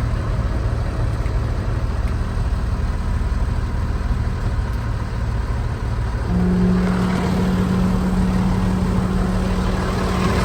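Jet fuel truck engine idling steadily; about six seconds in, a steady hum joins and the sound gets a little louder as the PTO engages the fuelling pump system.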